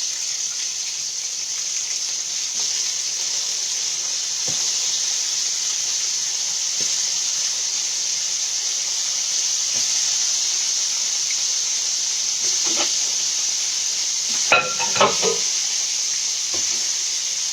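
Chicken pieces deep-frying in hot oil, a steady sizzle. A short run of knocks and clinks from pans or utensils comes near the end.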